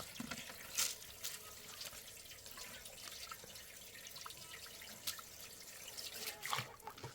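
Water trickling and dripping, with a few light clicks and splashes.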